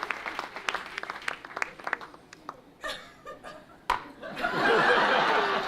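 Audience applause thinning out to scattered claps, a single sharp knock, then a louder burst of audience laughter and voices from about four and a half seconds in.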